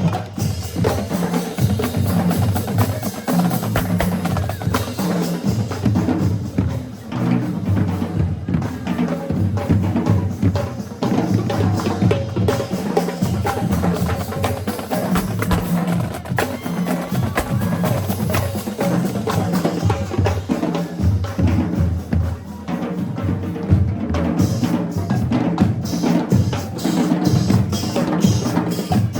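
Marching band drumline playing a cadence on snare and bass drums, continuous and fairly loud.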